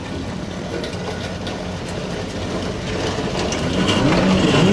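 A car engine running with a steady low hum that grows louder, its pitch rising near the end as it starts to be revved.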